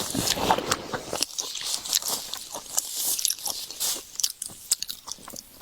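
Close-miked chewing of crunchy seafood: rapid crunches and wet clicks. They are densest for the first four seconds and thin out near the end.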